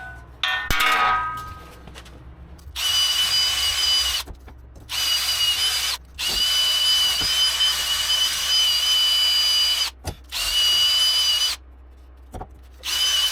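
Handheld power drill running in five stop-start bursts with a steady high whine, the longest about four seconds, while cleaning rust out of the wheel-bearing bore before the new bearing goes in. A brief metallic clatter comes just before the first run.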